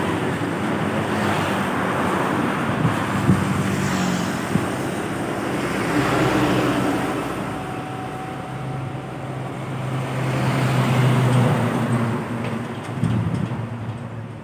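Road traffic passing close by: engines of heavy vehicles such as trucks and buses running, with the sound swelling twice, about six and eleven seconds in, as vehicles go past.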